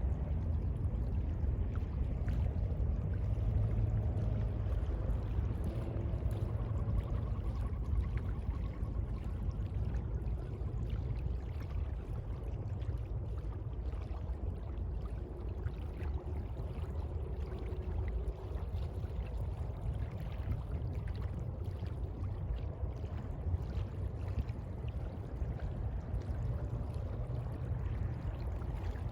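Sea water lapping and sloshing, a steady low rumble with small scattered splashes and no large wave breaks.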